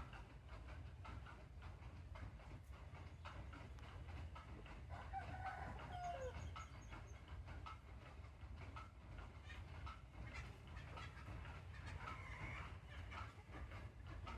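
Water trickling and dripping onto plant leaves, a steady run of small splashing clicks over a low rumble. A bird calls a few times, with short clucking calls about a third of the way in and again near the end.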